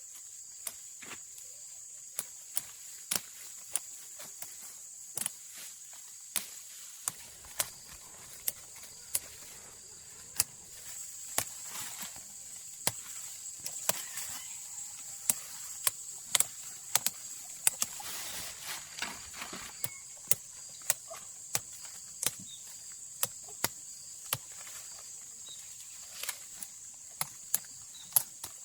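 Steady high-pitched insect buzzing, like crickets or cicadas, with irregular sharp clicks and snaps, one or two a second and more frequent in the second half.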